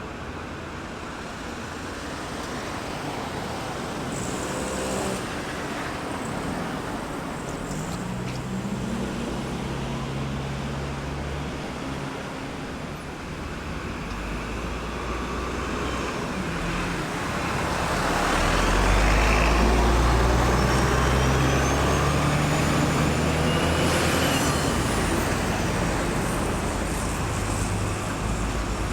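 Road traffic circling a roundabout: steady tyre and engine noise from passing cars, with a heavier vehicle's deep engine drone swelling about two-thirds of the way through, then easing off.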